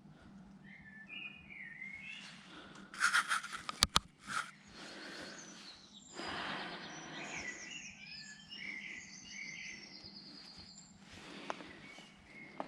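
Birds chirping and singing in short repeated phrases, with a quick run of sharp clicks and knocks about three to four seconds in and a rustling noise around six seconds.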